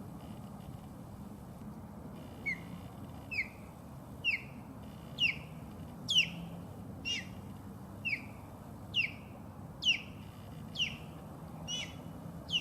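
Osprey calling: a loud series of short, high whistled chirps, about one a second, each dropping quickly in pitch, starting a couple of seconds in.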